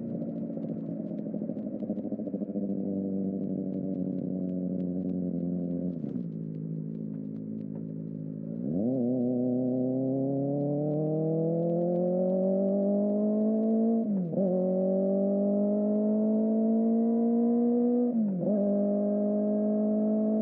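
Kawasaki ZX-4RR's inline-four through a Trick Star Ikazuchi slip-on exhaust, ridden. The revs hold and then fall away about six seconds in, a quick blip follows, and then the engine pulls with its pitch climbing steadily, broken twice by brief dips like quick gear changes.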